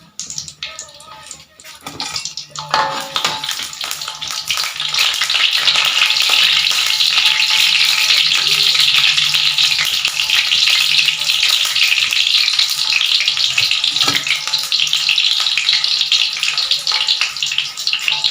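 Sambal ingredients frying in hot oil in a pan. A few knocks come about two to three seconds in, then the sizzle swells into a loud, steady hiss that holds.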